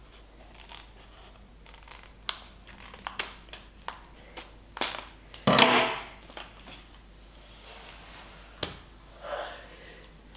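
Light clicks and taps from small things being handled, with a loud crinkling, tearing noise about five and a half seconds in.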